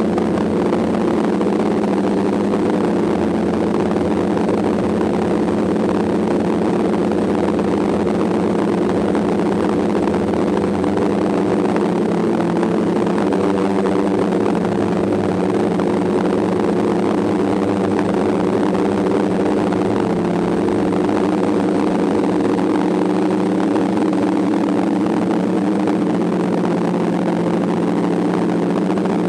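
DJI F550 hexacopter's six electric motors and propellers buzzing steadily in flight, a hum of several close tones that drift slightly in pitch now and then.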